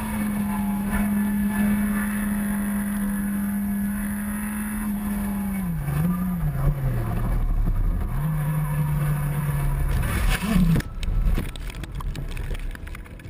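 Motorcycle engine running at a steady high note, then dropping and wavering in pitch as the revs fall and pick up, holding a lower note and rising briefly before it cuts off abruptly about eleven seconds in, followed by irregular noisy clattering and rustling.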